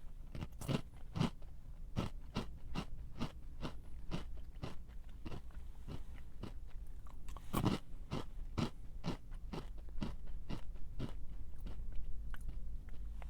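A person chewing a crunchy snack: a steady run of crisp crunches, about two or three a second.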